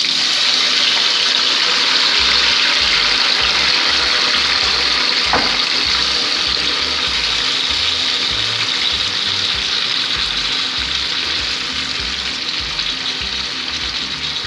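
Sliced tomatoes sizzling loudly in hot oil in a pan, a dense, steady frying hiss that eases a little towards the end as the tomatoes start to cook down.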